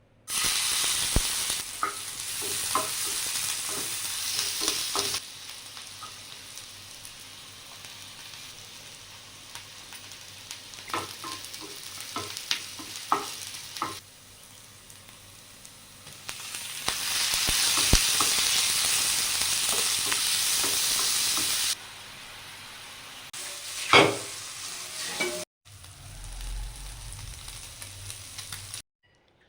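Food frying and sizzling in hot oil in a pan, with a utensil clicking and scraping against the pan as it is stirred. The sizzle is loud in two stretches and quieter between them, the sound changes abruptly several times, and one loud clank comes toward the end.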